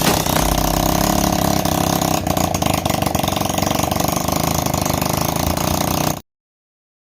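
Honda CD 70's small single-cylinder four-stroke motorcycle engine running steadily, cutting off abruptly about six seconds in.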